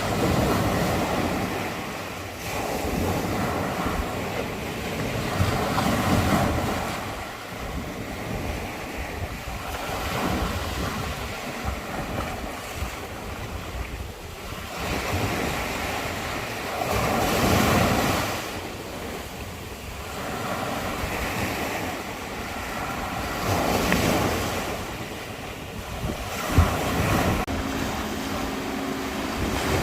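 Sea waves surging and washing in, swelling and easing every few seconds, with wind buffeting the microphone.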